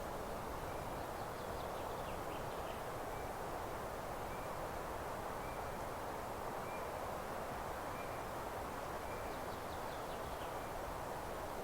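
Steady rustling hiss of wind through meadow grass and leaves, with a small bird repeating a short high note about once a second and two brief twittering phrases, one near the start and one near the end.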